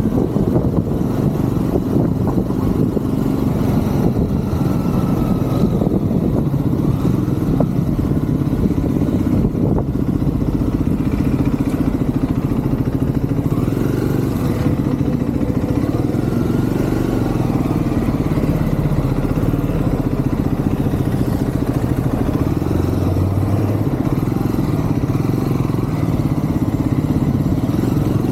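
Triumph Scrambler 400 X's single-cylinder engine running while the motorcycle is ridden through city traffic, heard from the rider's position. The engine pitch rises and falls now and then as the throttle changes.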